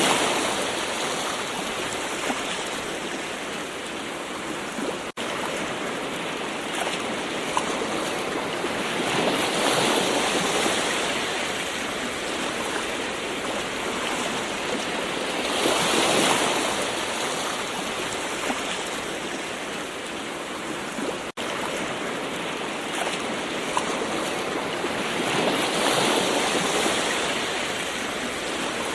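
Gentle ocean waves washing in, swelling and easing off four times in slow succession, with two very brief dropouts in the sound.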